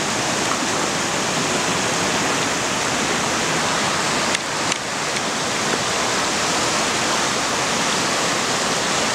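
Floodwater rushing steadily through a yard, a continuous even roar of running water. There are two faint clicks close together a little before the middle.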